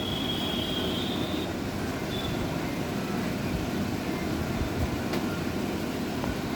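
Steady rumbling noise, with a thin high squeal that fades out about a second and a half in.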